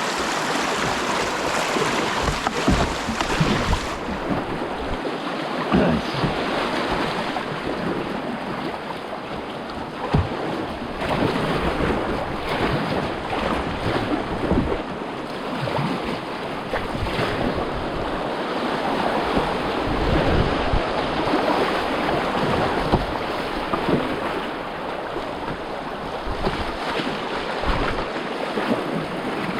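Rushing whitewater around a kayak running a rapid, a steady wash broken by frequent short splashes, with wind buffeting the microphone in low rumbles.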